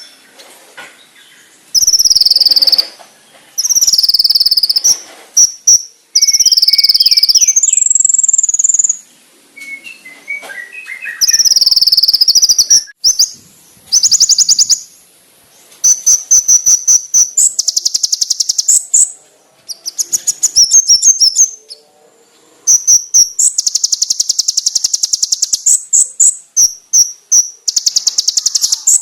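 Konin (kolibri ninja) sunbird singing: loud, high-pitched phrases, some gliding down, alternating with long runs of very rapid sharp trills and ticks.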